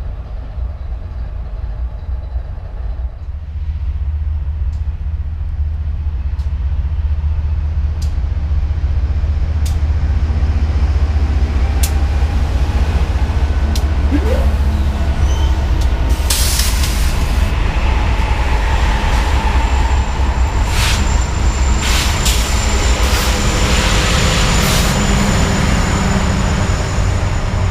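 Eastbound BNSF freight train rolling by, a heavy low rumble that builds over the first few seconds. Sharp metallic clanks come through it, with a thin high-pitched squeal from the wheels in the second half.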